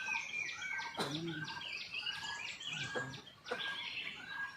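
Birdsong: a short, curved call repeated about every two-thirds of a second, with a mix of higher chirps over it and a short low call about a second in.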